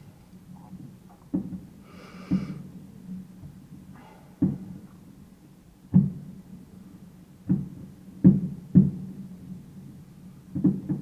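Fireworks shells bursting: about nine irregularly spaced bangs, each trailing a short low rumble, with a brief higher-pitched burst about two seconds in.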